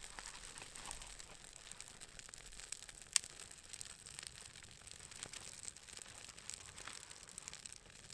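A small newly lit fire of birch bark and dry spruce twigs crackling as it catches, with scattered small pops and one sharp snap about three seconds in.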